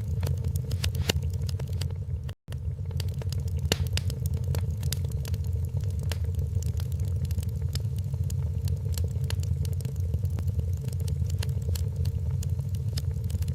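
Wood fire crackling in a fireplace: irregular sharp pops and snaps over a steady low rumble of the burning logs. The sound drops out completely for a split second about two and a half seconds in.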